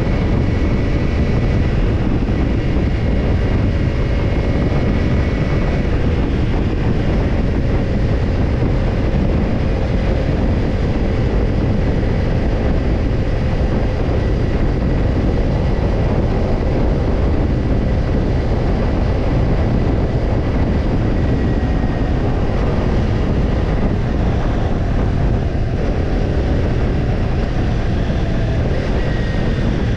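Kawasaki Ninja 250 parallel-twin running through a BEET NASSERT Evolution Type II black titanium slip-on muffler, the exhaust note heard under way at a steady engine speed. The pitch eases down slightly near the end.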